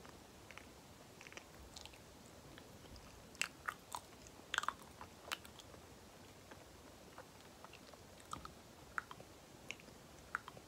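Close-miked mouth chewing banana, with sticky, wet clicks and smacks of the lips and tongue. A cluster of sharper clicks comes a few seconds in, then sparser ones.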